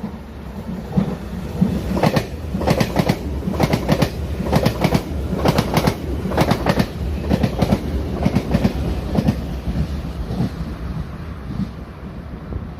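Taroko Express tilting electric multiple unit passing at speed, its wheels clattering rhythmically over rail joints with a steady rumble underneath. The clatter builds from about a second in and fades out near the end.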